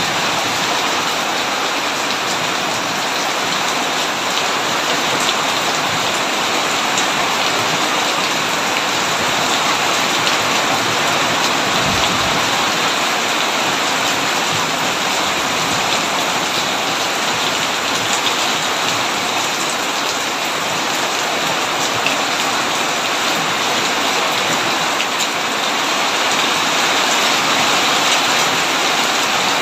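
Heavy rain falling steadily on a tin roof, a dense even patter.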